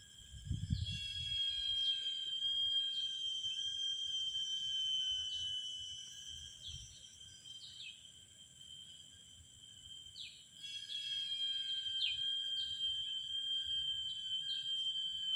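Insects calling: a steady high-pitched tone overlaid with short falling chirps, in two spells, the second starting about ten seconds in. A brief low thump comes about a second in.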